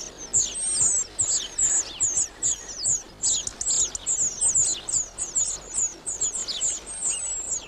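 Young European robins calling with rapid, high, thin chirps, several a second, with a couple of longer thin whistles: begging calls from fledglings being fed.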